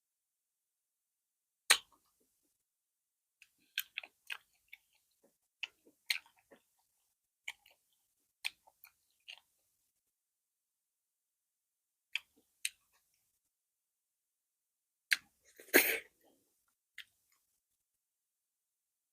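Close-miked eating sounds: scattered wet clicks and smacks of a mouth chewing soft food, with a sharp click about two seconds in and a louder, longer burst of smacking near the end.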